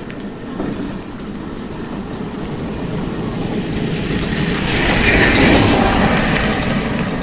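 A vehicle rumbles past close by, its noise swelling to a peak about five seconds in and then fading.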